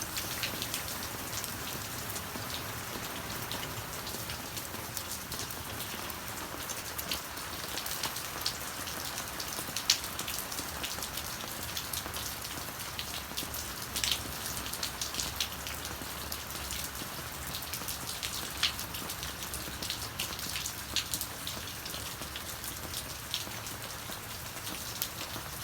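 Steady rain falling, with scattered sharp taps scattered through it.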